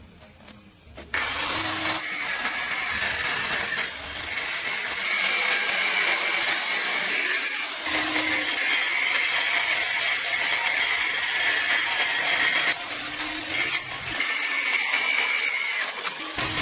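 A power tool switches on suddenly about a second in and runs loud and steady, with a few brief dips.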